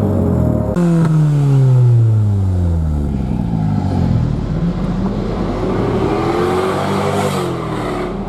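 Car engines driving past. One engine note falls steadily in pitch about a second in, and another rises and falls again near the end.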